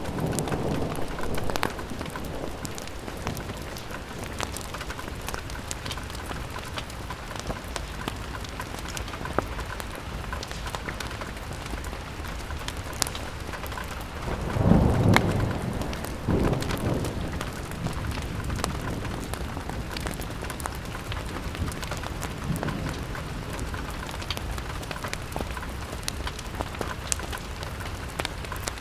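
Steady rain pattering against a window, with scattered sharp crackles from a fireplace. A low rumble swells about halfway through and fades, with smaller ones near the start and later on.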